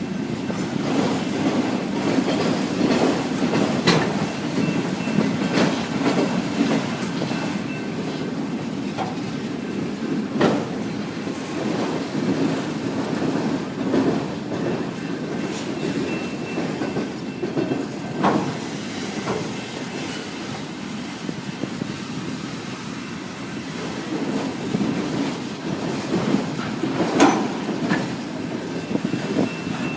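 Autorack freight cars rolling past on a curve: a steady rumble of wheels on rail, broken by irregular sharp clacks, with a faint high wheel squeal coming and going.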